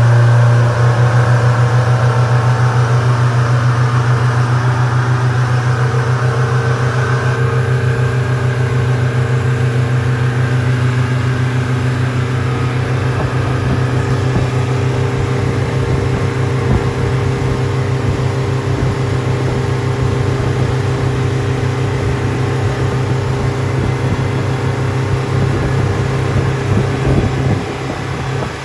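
Boat engine running steadily under way, a loud continuous low hum with a rushing noise of water and wind over it.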